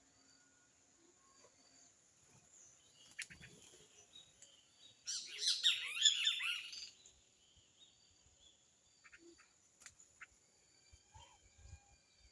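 Wild songbirds chirping: a loud burst of rapid twittering lasting about two seconds, starting about five seconds in. Faint short calls and a couple of sharp clicks come before and after it.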